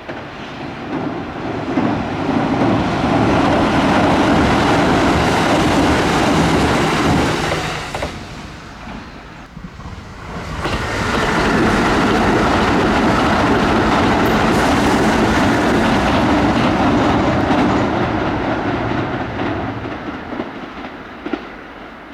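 Kintetsu electric train passing at speed, its wheels clacking over the rail joints. The sound dies down about eight seconds in, then a second pass builds again about ten seconds in and fades near the end.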